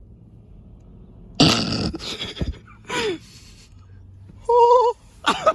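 A man's voice making short non-word sounds: a loud cough-like burst about one and a half seconds in, then a brief falling call and a short wavering held sound near the end.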